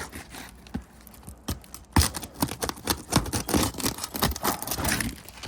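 Asphalt roof shingle being pried and scraped loose around stuck nails, a quick string of crackling, scraping and tearing noises with sharp clicks, thickest from about two seconds in.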